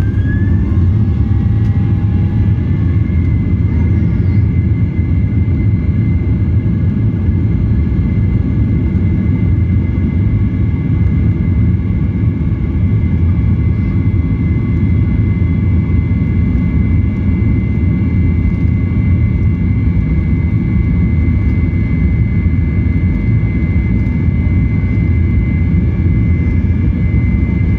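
Airliner engines running at high power, heard inside the passenger cabin: a loud, steady low rumble with a thin engine whine on top. The whine rises in pitch right at the start and then holds steady.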